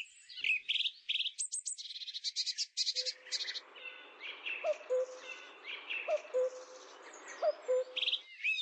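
Several birds chirping and trilling, with quick high chirps throughout. From about three seconds in, a low hooting call repeats about every second and a half, each a short rising note followed by a held tone.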